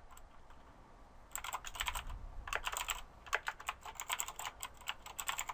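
Computer keyboard typing in uneven bursts of quick keystrokes, starting about a second in.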